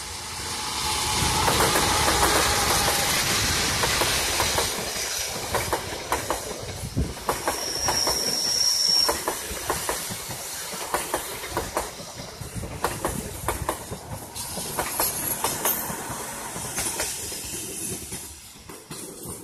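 Diesel-electric locomotive and passenger coaches passing close by. The locomotive is loudest in the first few seconds, then the wheels clack over the rail joints, with a brief high wheel squeal about eight seconds in.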